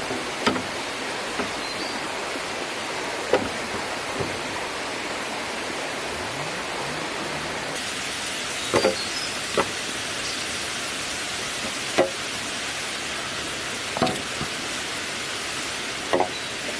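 Small river running steadily, with about eight sharp knocks at irregular intervals a second or more apart.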